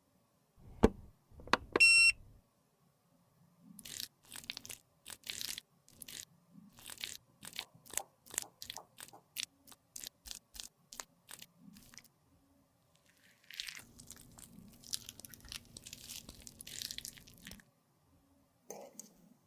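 Makeup being crushed and worked by hand: a sharp knock and a brief high squeak in the first two seconds, then a run of quick crunchy clicks and taps, then a few seconds of scraping.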